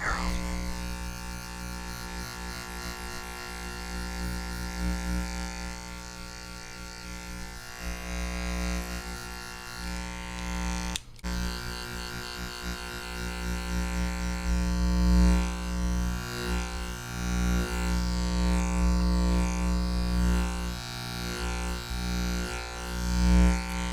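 Electric hair clippers buzzing steadily close to the microphone, swelling and fading as they move. The buzz cuts out for a moment about eleven seconds in.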